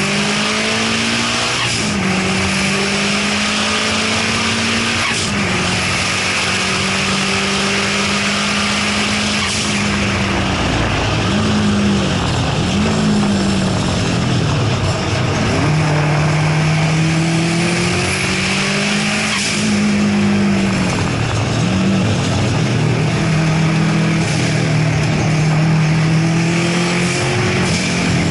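Turbocharged 2.5-litre flat-four of a 2002 Subaru WRX STI (EJ252 with a GT35R turbo) running hard on a circuit lap, heard from inside the car. The engine note holds steady for long stretches and dips sharply and climbs back several times.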